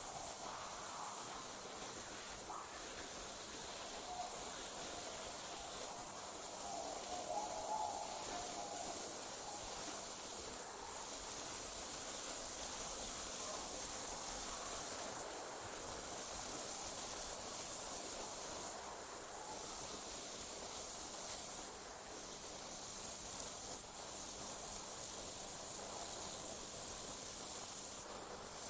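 Night insects trilling in a continuous high-pitched chorus, broken by brief dips every few seconds.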